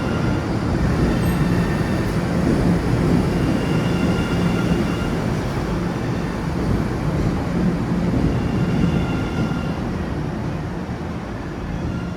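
MBTA Red Line subway train running in the station: a steady, loud rumble with a faint high whine that comes and goes.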